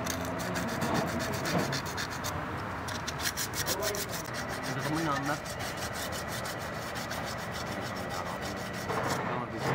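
Sandpaper rubbed in quick, even back-and-forth strokes over the engine's valve cover gasket seat, scouring the metal surface clean before a new gasket goes on.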